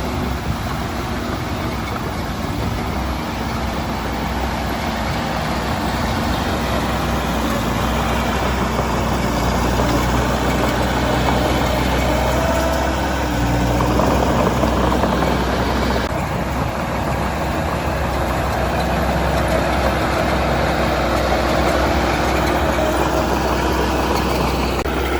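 Heavy construction machine's diesel engine running steadily, its note shifting a little about halfway through.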